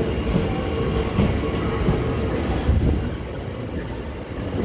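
Electric multiple-unit train moving slowly along the platform: a steady low rumble with a faint held hum.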